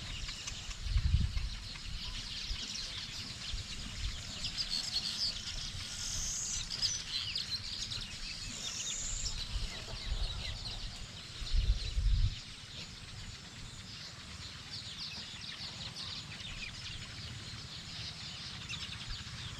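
Many small birds chirping and trilling together in a busy chorus. Two brief low rumbles on the microphone stand out, about a second in and again about two-thirds of the way through.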